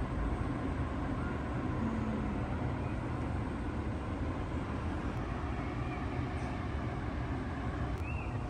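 Steady low rumble of outdoor background noise, with a couple of faint, brief high chirps near the end.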